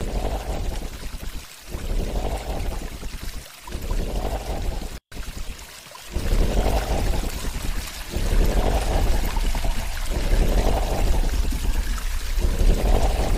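Underwater water noise, rushing and bubbling in surges every second or two, with a brief cut-out about five seconds in.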